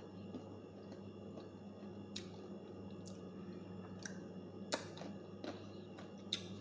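A person eating slices of raw sour green mango: quiet chewing with a few short sharp clicks, the loudest a little under five seconds in, over a steady low hum.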